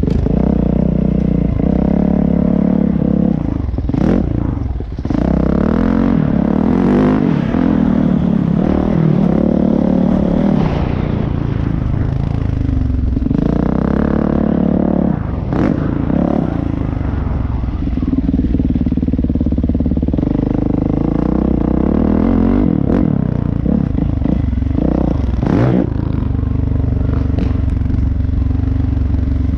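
Dirt bike engine running hard, its pitch rising and falling over and over as the throttle is worked, with a few sharp knocks and some clatter.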